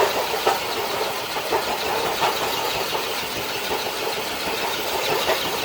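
An HB Toys RC scale truck pulling a weighted dead sled across concrete: its electric drivetrain straining and the sled scraping on the concrete make a loud, steady grinding noise with small irregular clicks.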